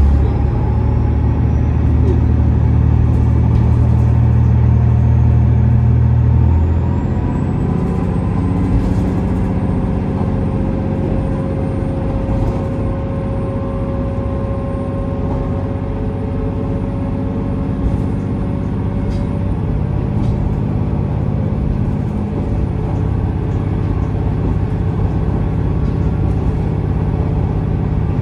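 KiHa 47 series diesel railcar running, heard from inside the car: a heavy low engine drone that eases off about six seconds in, then steady running noise from wheels and rails, with a faint whine slowly rising in pitch as the train gathers speed.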